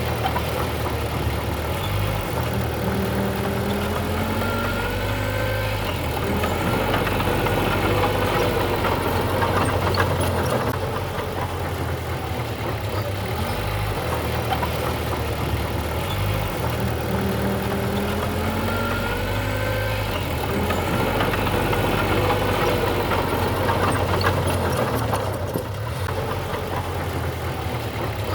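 Diesel engine of heavy earthmoving machinery running, its low note stepping up and down with load. Brief squeals rise and fall over it every so often.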